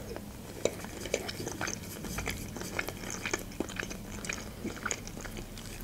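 Close-miked chewing of fried chicken hearts and potatoes: soft, wet mouth clicks and smacks at irregular intervals.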